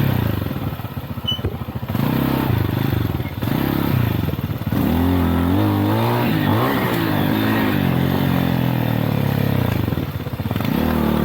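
Motorcycle engine revving up and down as it is ridden on a trail. The throttle eases off about a second in and again near the end.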